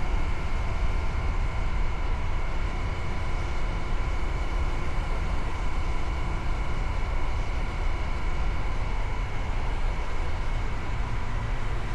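Motorcycle riding at a steady pace, with the engine's even hum and heavy wind rumble on the microphone.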